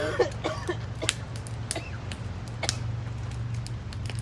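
Campfire crackling: a few sharp, irregular pops over a steady low hum.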